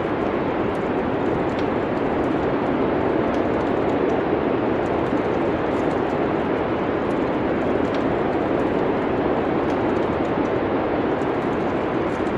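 Steady, even rushing of winter wind, with faint scattered crackles of a wood fire in a fireplace.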